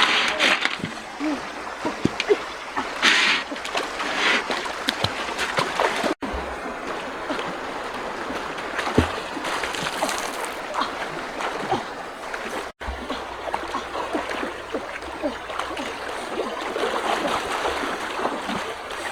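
Water splashing and trickling, with scattered small knocks and clicks, broken by two abrupt cuts.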